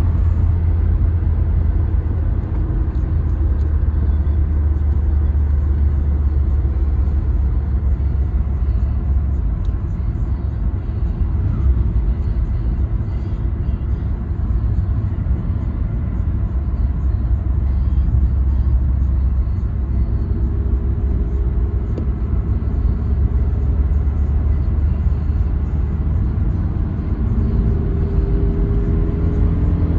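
Toyota Carina E 1.6 16V engine and road noise while driving: a steady low rumble. From about two-thirds of the way in, a faint engine hum shows above it, rising slightly in pitch near the end.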